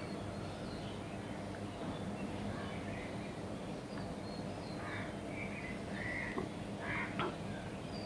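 Faint outdoor ambience with scattered bird calls: short, soft chirps over a steady low background, most of them from about halfway through.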